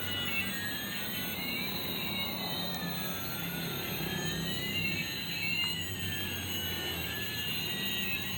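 Battery-operated toy airplane's electronic jet sound effect: several high whistling tones slide slowly up and down and cross each other over a low steady hum.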